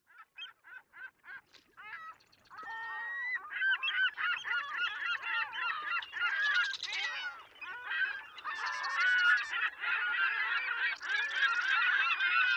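A flock of geese honking: a few separate honks at first, then many overlapping calls from about two and a half seconds in.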